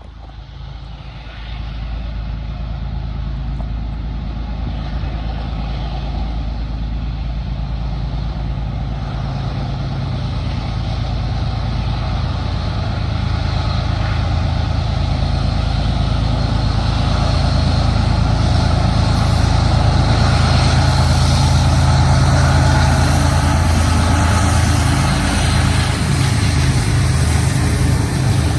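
Diesel freight locomotives approaching and running, a steady low engine throb with rumbling rail noise that grows steadily louder.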